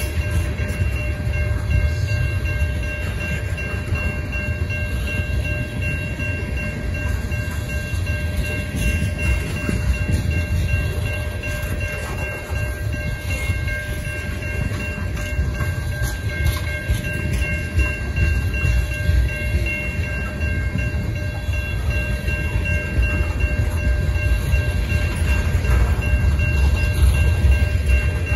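Loaded tank cars of a long freight train rolling steadily past at a grade crossing: a continuous low rumble of steel wheels on rail with light clacking. Steady high ringing from the crossing signal's bell sounds over it.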